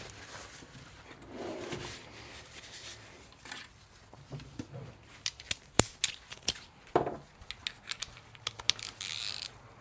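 Metal hand tools, a socket on an extension, being handled and fitted onto a bolt: soft rustling, then a scatter of sharp metallic clicks and clinks in the second half, the loudest about six seconds in.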